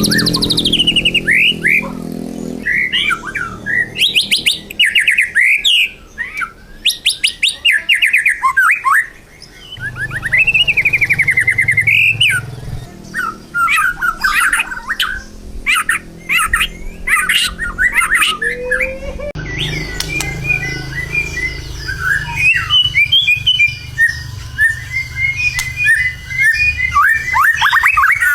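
White-rumped shama (murai batu) singing on and on in full 'gacor' song, the vigorous singing of a bird in contest form. The song mixes sliding whistled phrases, fast runs of repeated notes and chattering trills.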